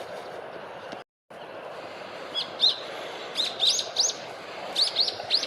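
Brown-eared bulbuls calling: a run of short, arched chirps repeated many times from about two seconds in, after a steady background hum and a brief dropout about a second in.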